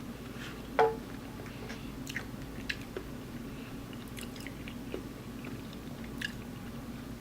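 Close-miked chewing of spicy noodles: scattered wet mouth clicks and smacks, the sharpest about a second in, over a steady low hum.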